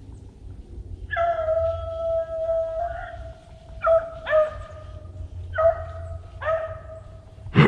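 Beagles baying on a rabbit's trail: a long drawn-out howl, then several shorter bays. A loud sudden thump comes right at the end.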